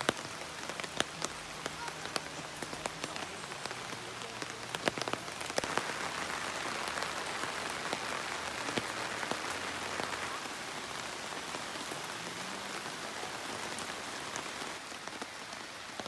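Heavy rain falling, with many close drops striking as sharp taps over a steady hiss. The downpour thickens about six seconds in, then eases a little.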